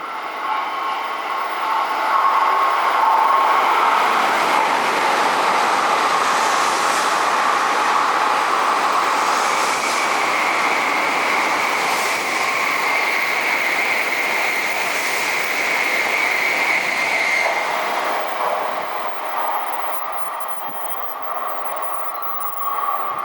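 An N700-series Shinkansen train passing through the station without stopping. A long, loud rush of wheels and air builds over the first few seconds with a steady high whine, holds, and fades near the end.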